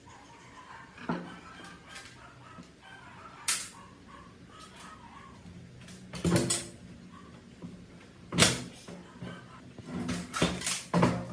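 A handful of separate sharp knocks and clicks, as of parts and tools being handled during the teardown of an old PC, with a quick cluster of them near the end.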